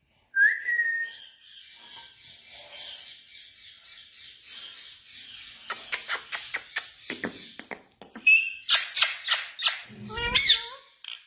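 Indian ringneck parrot calling: a short loud whistled call at the start, then a long raspy chatter, then a rapid run of clicking squawks and sliding calls toward the end, with a low thump near the end.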